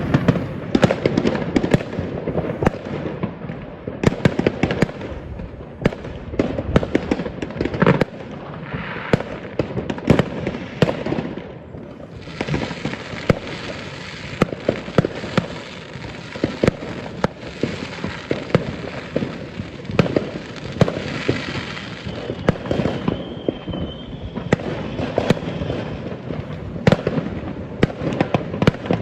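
Many fireworks going off at once: a steady barrage of bangs and crackling firecrackers, with a hissing stretch in the middle and a brief whistle near the end.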